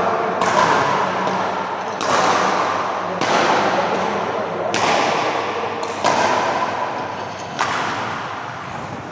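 Badminton rally: a racket strikes the shuttlecock about seven times, one hit every second or so, each hit echoing.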